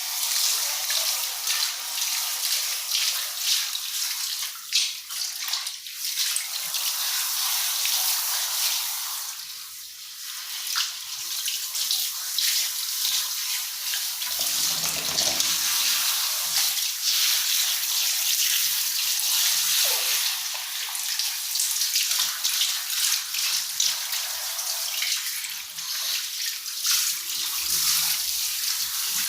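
Water running steadily from a tap or hose while a dog is being bathed and rinsed of soap suds, with a brief lull about ten seconds in.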